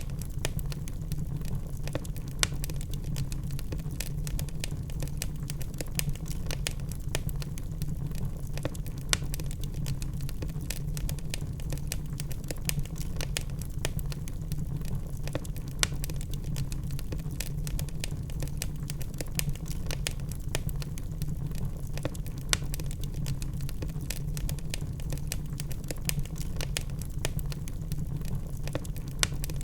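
Logs burning in a fireplace: a steady low rumble of the fire under frequent sharp crackles and pops, with a few louder pops every several seconds.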